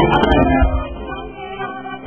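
Live band music with singing, a forró band's bass, drums and vocals. Near the end the bass and drums drop away briefly.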